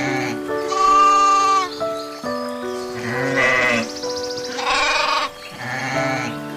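Goat bleating three times, each call long and quavering, over background music with held notes.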